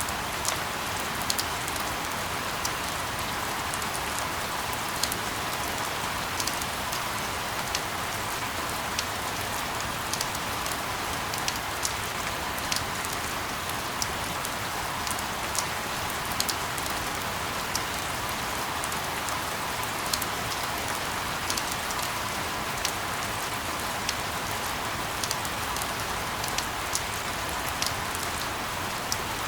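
Steady rain: an even hiss with scattered, irregular ticks of individual drops hitting a surface.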